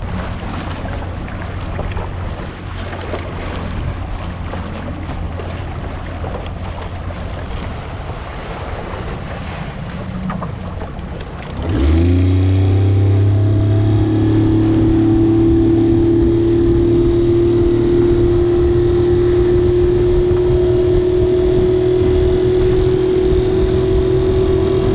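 A motorboat's engine runs under way, with wind and water noise. About twelve seconds in it revs up with a rising pitch, then holds a loud, steady drone at cruising speed.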